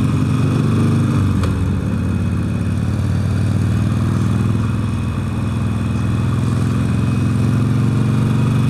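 Motorcycle engine running steadily under way, heard through a microphone tucked inside the rider's helmet, its level easing slightly a little past the middle and then picking up again.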